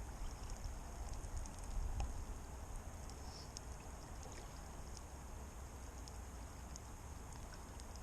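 Faint, steady sound of lake water over a low rumble, with scattered light ticks.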